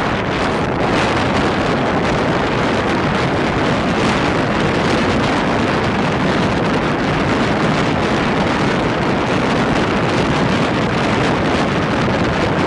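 Steady loud rushing noise of a passenger train running at speed, wind buffeting the microphone over the rolling noise of the coaches.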